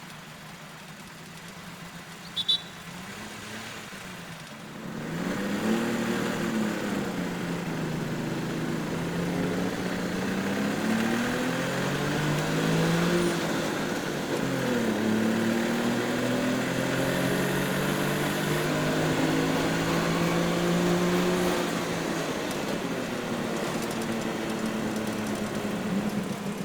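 Street traffic: several motor vehicle engines passing and changing speed, their pitches rising and falling over one another. The traffic grows louder about five seconds in. A short high chirp comes a couple of seconds in.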